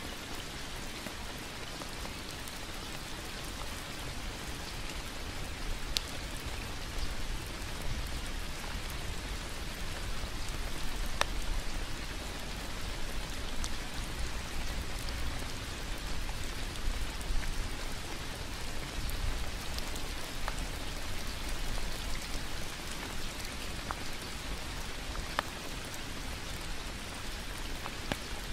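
Steady rain falling, an even hiss, with the odd single drop striking close by as a sharp tick, clearest about six and eleven seconds in.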